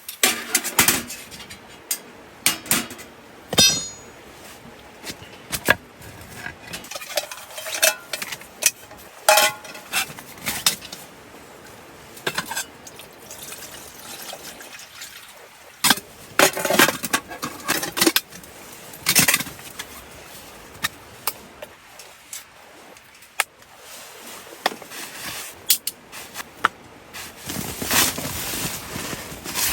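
Camp cookware and utensils being handled: irregular clinks, knocks and scrapes of pots, dishes and cutlery, some strokes ringing briefly.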